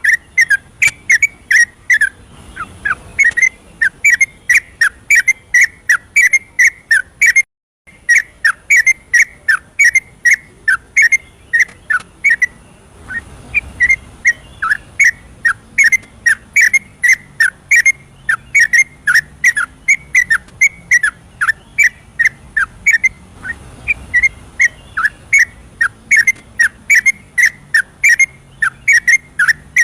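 Yellow-vented bulbul singing a long, rapid run of short whistled notes, about three a second, each slurring downward; the song cuts out briefly about seven seconds in.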